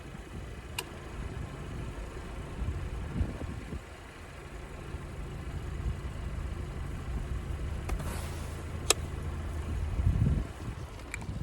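Car engine idling with a steady low hum. There are a couple of sharp clicks and a low thump near the end.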